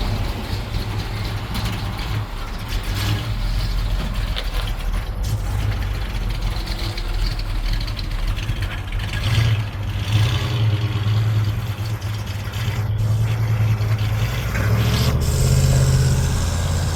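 1969 Chevy step-side pickup's 350 small-block V8 running, its engine note rising about halfway through and again near the end.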